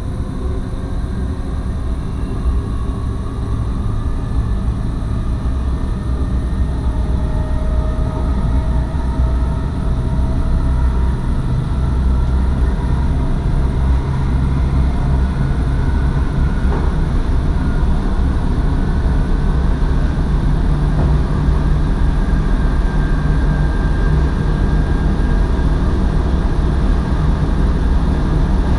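NS SGMM Sprinter electric train running along the track, heard from inside the driver's cab: a steady low rumble, with a faint whine that climbs slowly in pitch as the sound grows gradually louder.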